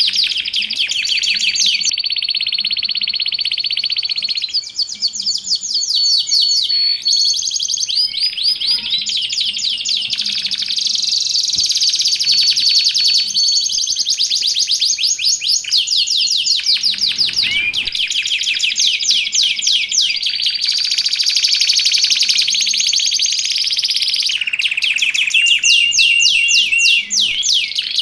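Canary singing without a break: long runs of fast repeated trilled notes, with a few steady high whistled notes held for a second or two.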